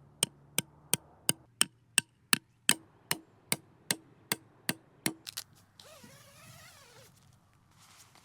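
Tent stakes being hammered into the ground: about fifteen sharp, even strikes, roughly three a second, ending with two quick blows.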